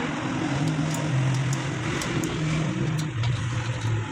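Honda CD70's small single-cylinder four-stroke engine running, its pitch rising and falling slightly as the throttle varies.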